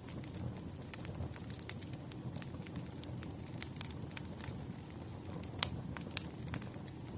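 Wood fire burning: a steady low rumble of flames with irregular crackles and sharp pops of burning firewood, one louder pop about five and a half seconds in.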